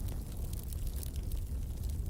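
Wood fire burning in a fireplace: a steady low rumble of flames with a few faint, sparse crackles.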